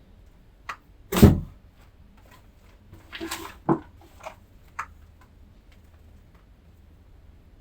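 A few knocks and clunks of things being handled. One sharp knock about a second in is the loudest, a short scraping rustle follows around three seconds in, then a few lighter clicks, and after that only a faint low hum.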